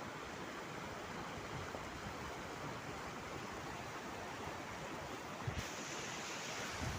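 Steady rushing noise of rain and running water, with two low thumps, one about five and a half seconds in and one near the end.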